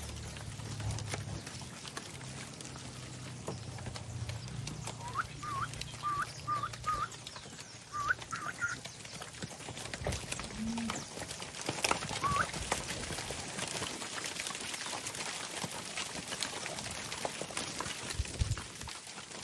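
Calves moving about on their hooves: scattered hoof knocks and shuffling. A run of short rising chirps comes about five seconds in and once more near the middle.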